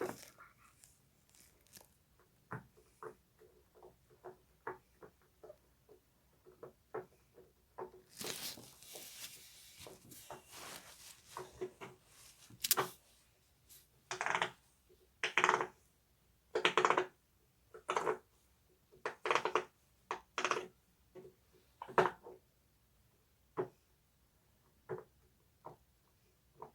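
Silicone pop-it fidget toy bubbles being pressed in, giving a run of short, irregular pops, louder from about halfway through. Around a third of the way in there are a few seconds of rustling.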